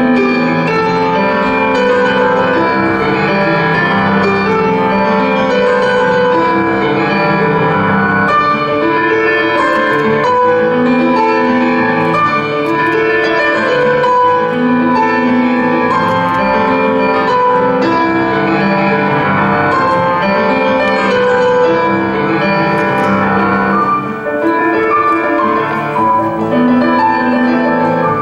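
Piano music, steady and loud, with chords and melody notes changing every second or so.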